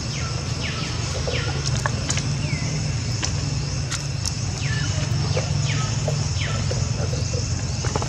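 Birds calling outdoors: short whistled notes that drop steeply in pitch, repeated about once a second. Under them runs a steady low hum and a steady high-pitched drone.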